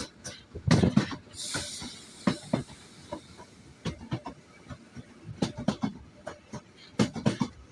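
Train clattering and rattling along the track in irregular knocks, with a brief hiss about one and a half seconds in.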